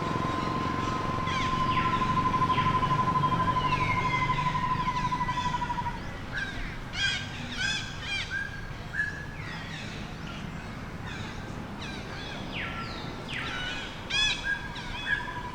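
Outdoor animal sounds: a steady, rapidly pulsing buzz for the first six seconds that comes back near the end, with many short, high-pitched animal calls repeated throughout.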